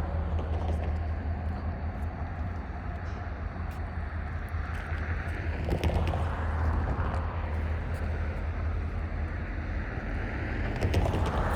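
GP40-2 diesel locomotive running with a steady low engine drone. Rumbling noise swells about halfway through and again near the end, with a few sharp clicks.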